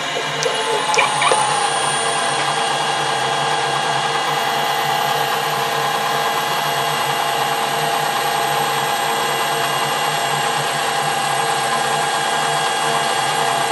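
A metalworking machine tool running at a steady speed, its motor and gearing making a steady hum with several fixed tones. A couple of light clicks come in the first second while the pitch settles, as if just brought up to speed.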